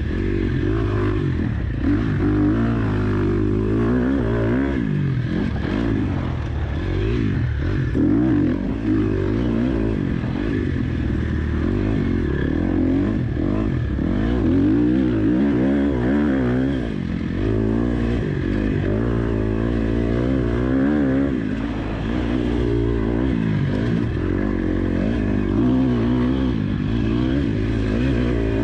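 KTM 250 SX-F motocross bike's four-stroke single-cylinder engine being ridden hard, its pitch rising and falling continually with the throttle and gear changes.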